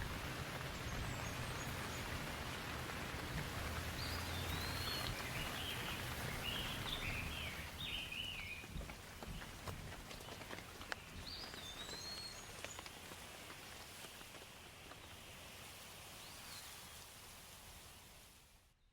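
Steady forest rain with a low rumble of distant thunder in the first half, and a bird calling over it several times in short whistled chirps. The sound fades gradually, then cuts off abruptly just before the end.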